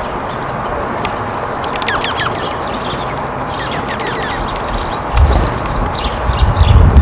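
Small songbirds chirping in quick falling notes over a steady outdoor hiss. From about five seconds in, loud low rumbles come and go under the chirps.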